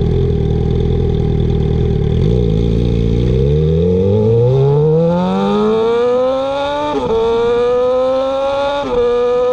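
2015 Suzuki GSX-R 750's inline-four engine with an Akrapovic slip-on exhaust accelerating hard. Its pitch starts rising about two seconds in, and it shifts up twice, with brief dips near seven and nine seconds.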